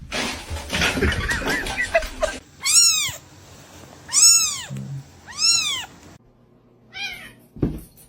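Cat meowing: three loud, drawn-out meows about a second and a half apart, each rising then falling in pitch, then a shorter, fainter meow near the end.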